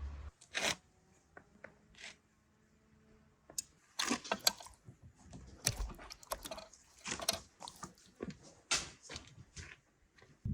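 Irregular crunching clicks and taps: a few scattered ones at first, then coming thick and fast from about four seconds in.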